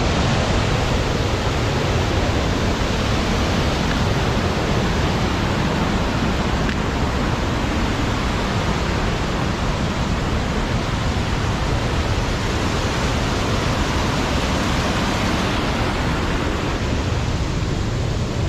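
Steady rush of a fast-flowing mountain stream, an even noise that runs on without pause.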